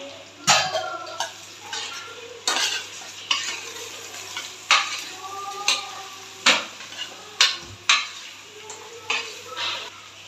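A metal ladle stirring onions and green chillies frying in oil in an aluminium pressure cooker: a steady sizzle, with the ladle knocking against the pot about once a second.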